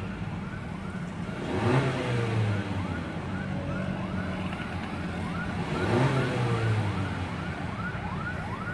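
Honda CR-V's 1.5-litre turbocharged engine revved in Park, heard from inside the cabin: it swells about two seconds in and again about six seconds in, each time falling back. A short rising chirp repeats two or three times a second throughout.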